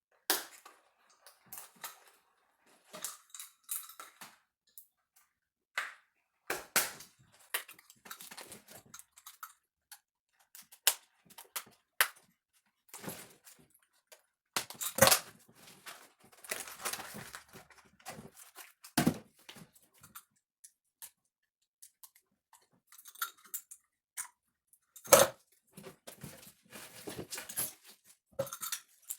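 A Subaru EJ22 engine wiring harness being cut apart and stripped with a half-worn utility-knife blade: irregular crackling, tearing and sharp snaps of the covering and wires. The loudest snaps come about 15 and 25 seconds in.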